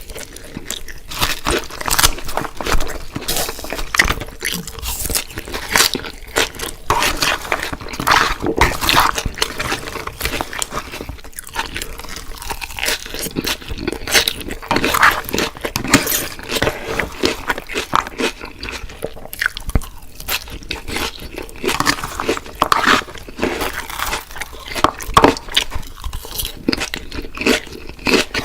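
Biting, crunching and chewing of crispy fried food, an unbroken run of crisp crackles and crunches.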